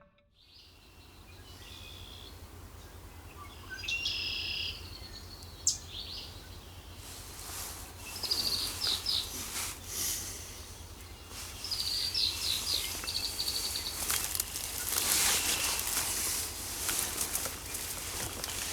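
Woodland birds singing in the early morning: short high chirps and quick trills, several of them, over a steady low rumble. Scattered crackling clicks thicken in the second half.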